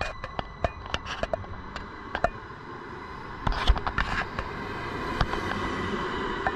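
Vy passenger train moving past along the platform, with irregular sharp clicks and knocks, a cluster of them about three and a half seconds in, over a steady rolling noise that grows louder in the second half.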